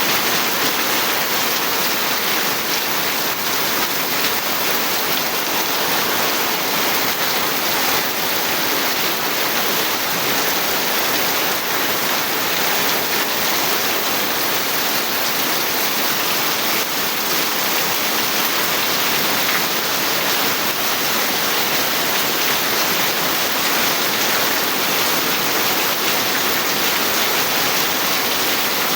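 Steady heavy rainfall, a dense even hiss with no let-up.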